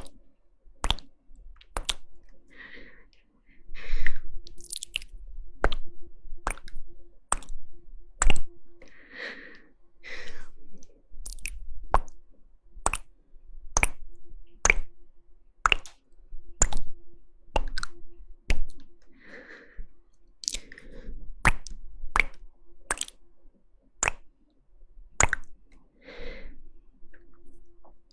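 Close-miked ASMR mouth sounds: crisp, wet tongue and lip clicks at a steady pace of a little more than one a second, with now and then a softer, longer moist smacking sound in between.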